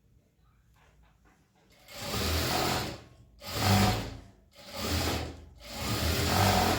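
Sewing machine running in four short bursts of about a second each, starting and stopping as it stitches.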